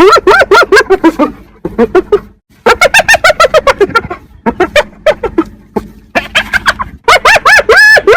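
Spotted hyena giggling: quick runs of short, pitched notes that rise and fall, several a second, in bouts separated by brief pauses, with a longer held note near the end.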